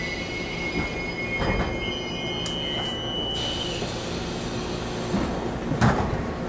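Taiwan Railway EMU700 electric multiple unit coming to a stop, heard from inside the car: a high, steady brake squeal in two tones dies away about three to four seconds in, leaving the train's steady hum at standstill, with a couple of short knocks.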